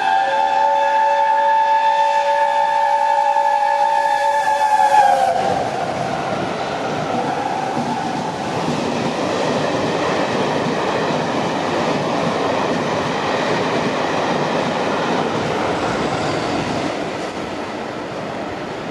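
Steam locomotive Tornado, a Peppercorn A1 Pacific, sounding its chime whistle, several notes at once, held until about five seconds in, when the chord bends down in pitch and stops as the engine passes. Then the locomotive and its train of coaches run through with a steady rolling rumble, easing off a little near the end.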